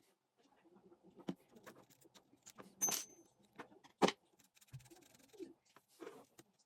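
Scattered clicks, taps and short scrapes of small metal parts of a spinning fishing reel being handled during repair, with a longer scraping sound about three seconds in and a sharp click just after four seconds.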